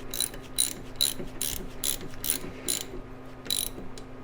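Socket ratchet wrench clicking as it is swung back and forth to tighten a belt-tensioner adjustment bolt, a run of sharp clicks about two to three a second with a short pause near the end.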